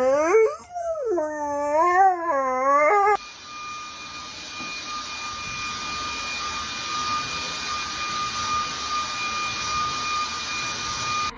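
A dog howling in a few wavering, rising-and-falling howls, coaxed on with "woo". About three seconds in it gives way abruptly to a steady hiss with a constant high-pitched tone.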